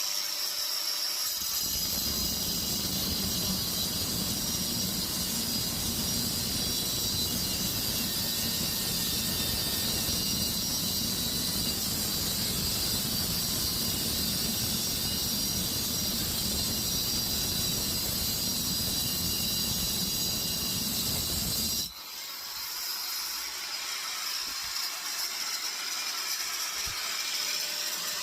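A power tool cutting through the steel shell of a compressor, with a steady high whine. A heavier, lower cutting noise starts about two seconds in and stops suddenly about 22 seconds in. The tool keeps running more lightly after that.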